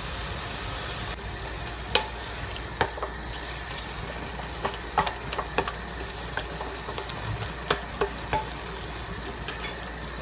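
Chicken and ground onion frying in a stainless steel kadhai with a steady sizzle. A metal spoon stirring through them gives scattered knocks and scrapes against the pan.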